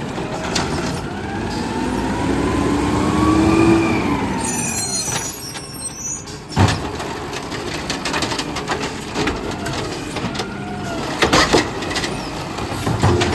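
Garbage truck engine revving up with a rising whine, then dropping back, followed by a short air hiss about four seconds in. Sharp metallic clunks and bangs come about seven and eleven seconds in.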